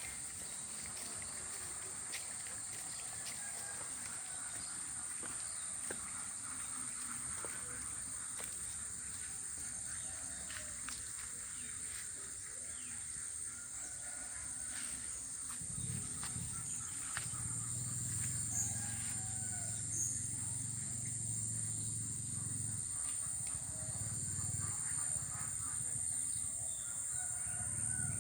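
Steady high-pitched drone of insects, with scattered faint chirps and clicks. About halfway through, a low rumble comes in and pulses on and off, and the sound grows louder toward the end.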